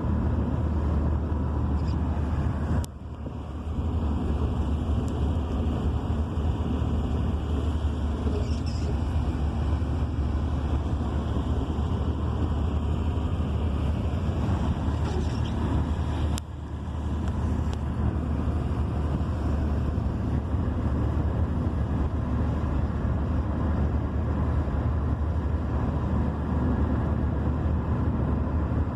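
Steady low rumble of a moving car's engine and tyres on the road, heard from inside the vehicle, with some wind noise. The sound drops out sharply for a moment about three seconds in and again about halfway through.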